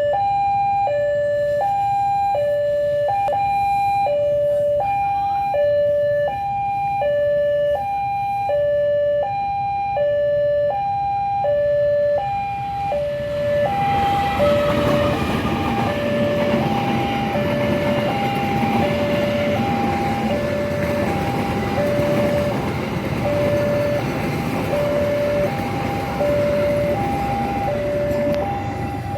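Railway level-crossing alarm sounding a steady high-low two-tone, about one cycle every second and a half. About halfway through, the rumble of a passing train rises under it and carries on to the end.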